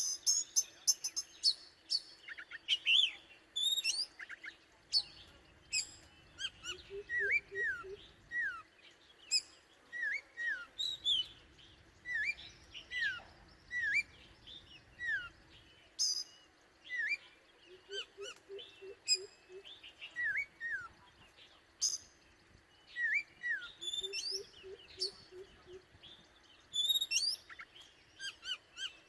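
Oriental magpie-robin singing: a string of short, sharp down-slurred whistles and chirps with clicks and high squeaky notes between them. A low, quick run of hoots comes in three times.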